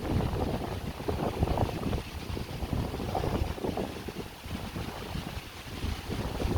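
Wind buffeting the microphone in gusts, a low rumble that rises and falls unevenly.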